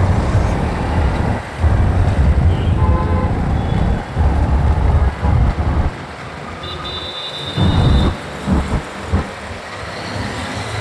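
Wind buffeting the microphone of a riding motorcycle in city traffic: a heavy, gusty rumble that drops away about six seconds in, with a short high tone about seven seconds in.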